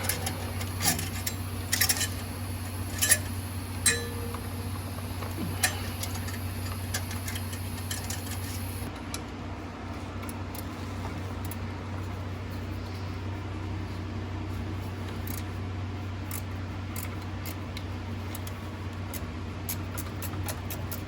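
Hand tools and metal engine parts clinking and tapping as parts are worked loose, with a handful of sharp clanks in the first six seconds and lighter, scattered ticks after that, over a steady low hum.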